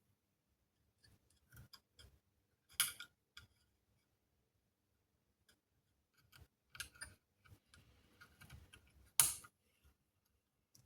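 Scattered light clicks and taps of small parts and tools being handled, with two louder sharp clicks about 3 seconds and 9 seconds in.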